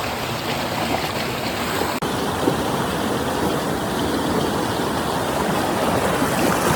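Flowing water running steadily, like a stream, with a split-second dropout about two seconds in.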